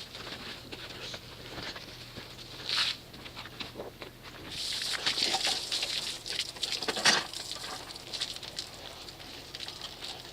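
Water pattering and splashing with scattered small clicks from a hand car wash with a soapy wash mitt. It gets louder and hissier for a few seconds about halfway through.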